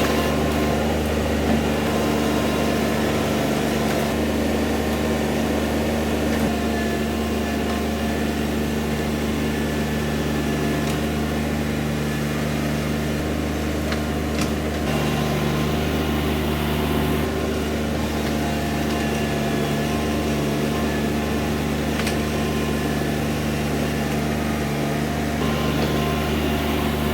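John Deere 2305 compact tractor's three-cylinder diesel engine running steadily at a constant speed.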